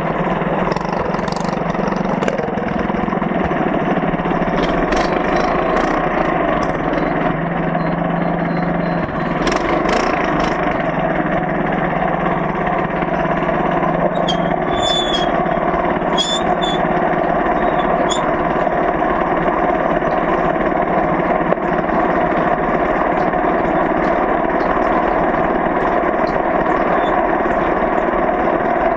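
Small minibike engine running steadily, with a few sharp clicks in the first half.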